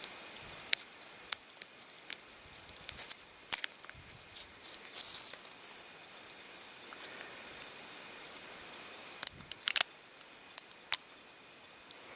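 Light clicks and scratchy handling noises from an unloaded revolver being handled while the position of its cocked hammer is marked. There are scattered single clicks and a few brief scratches in the middle, then a quick cluster of sharper clicks about three-quarters of the way through.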